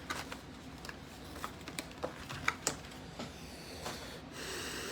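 Faint clicks and light rustling from handling trading-card packs and cards, with a soft steady rustle starting a little after four seconds in.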